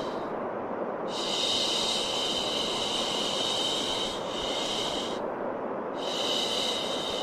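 Steady white noise with a shushing 'shhh' laid over it in long hisses: one of about four seconds starting about a second in, then another after a short break near the end. It is a shushing sound used to calm a crying baby.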